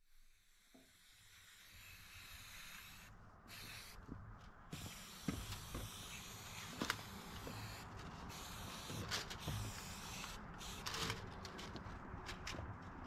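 Aerosol spray-paint can hissing in repeated bursts with short breaks between, with scattered light clicks and knocks of handling.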